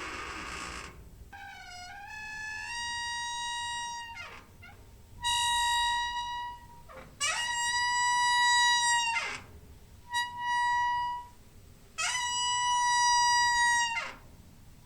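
Squeaky door hinge creaking over and over: about six long squeaks, each holding a steady high pitch and sliding down at the end, with short gaps between.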